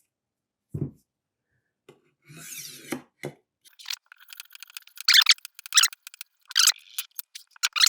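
Rolling knife sharpener's diamond wheel rasping along a kitchen knife's edge in short, rough strokes, loudest in the second half, after a dull thump near the start.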